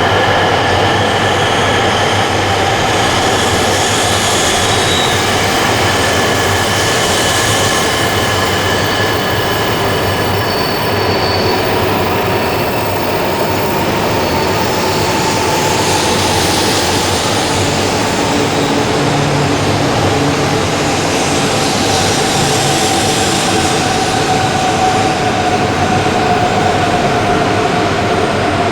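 Shinkansen bullet train running slowly at a station platform, its electric motors giving a whine that drifts slowly lower in pitch, over a steady rumble with some wheel squeal. Heavy wind noise on the microphone.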